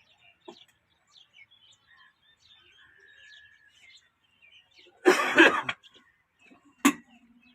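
Birds chirping faintly. About five seconds in comes a short, loud burst of noise, and near the end a single sharp click.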